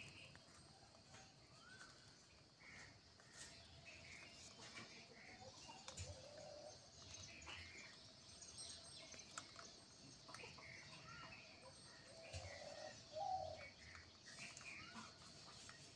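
Faint, scattered bird calls and chirps: short arched notes and soft lower calls repeating every second or two.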